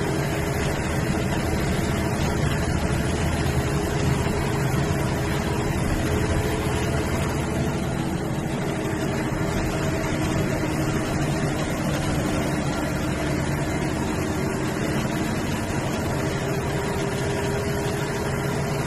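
MSRTC bus running steadily on the road: an unbroken engine hum with a few steady tones, mixed with road noise.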